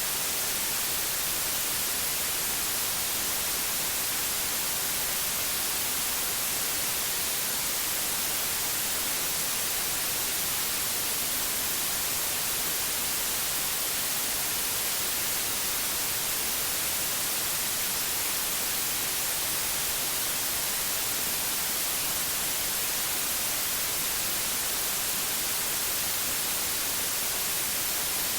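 Pure white noise: a steady, even hiss with no change.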